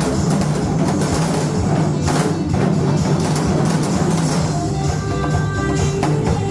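Korean trot-style song playing, with janggu (Korean hourglass drum) strokes beating along in a steady basic rhythm.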